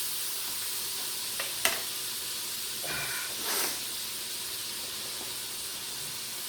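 Diced onion and celery sizzling in rendered bacon fat in an Instant Pot on sauté, a steady frying hiss, with a couple of light clicks about a second and a half in and a short scrape-like burst a couple of seconds later.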